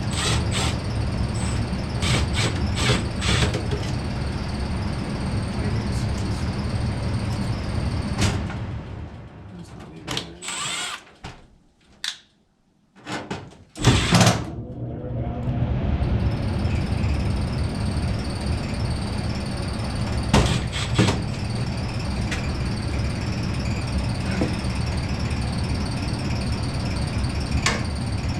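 A steady mechanical hum with scattered clicks and knocks. It fades almost to silence for a few seconds about halfway through, then comes back.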